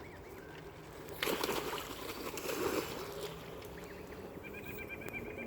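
Water splashing and churning, as ducks paddle and bathe, then near the end a rapid run of high, evenly spaced peeps from a duckling.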